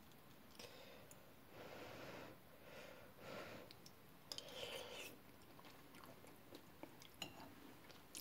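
Faint chewing, in four soft spells over the first five seconds, then a few light clicks near the end.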